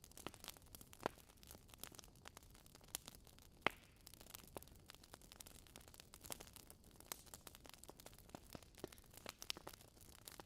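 Wood fire in a fireplace crackling: faint, irregular pops and snaps of burning logs over a low hiss, with one sharper snap a little before the middle.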